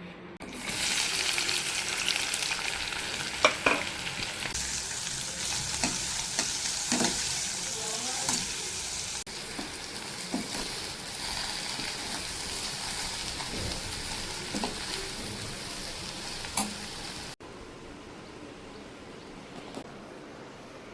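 Food sizzling and frying in a hot pan, with scattered clicks and taps of a utensil stirring. The sizzling cuts off suddenly about three-quarters of the way through, leaving only a faint background.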